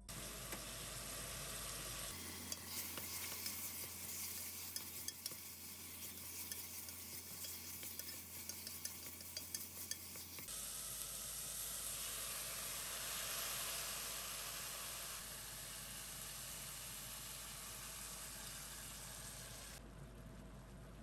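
Food sizzling in a frying pan. For the first half a utensil clicks and scrapes against the pan as the food is stirred; after that there is a steadier sizzle.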